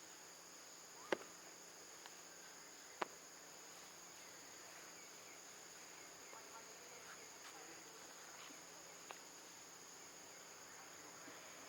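Faint, steady high-pitched chorus of insects, with two sharp clicks about one and three seconds in.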